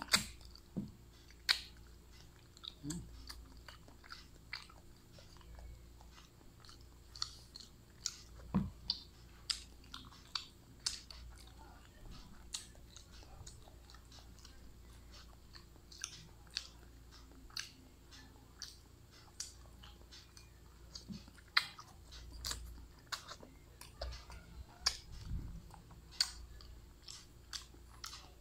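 Close-up mouth sounds of a person biting and chewing balut, a boiled fertilized duck egg, with irregular wet smacks and sharp clicks.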